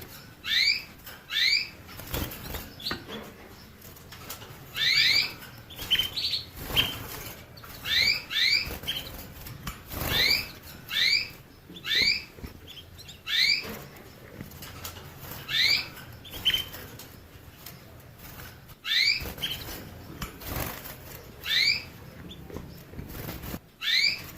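Finch giving short rising chirp calls, singly or in quick pairs about once a second, with brief rustles between the calls.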